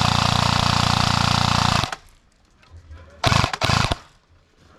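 Airsoft gun firing on full auto: a long burst of rapid shots that stops about two seconds in, then a shorter burst, briefly broken, a little past three seconds in.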